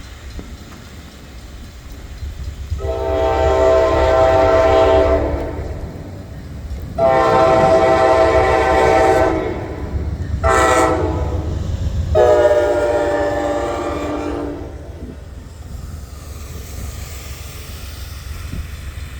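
Train air horn, a chord of several tones, sounding the grade-crossing signal: long, long, short, long. Under it runs the steady low rumble of the train.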